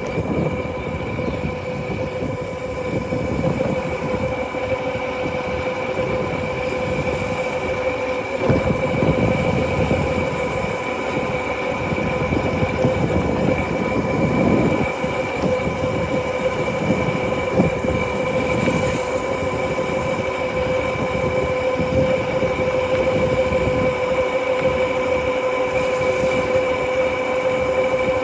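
Motorcycle engine running at a steady cruising speed, holding one even tone, with wind buffeting the microphone in irregular gusts.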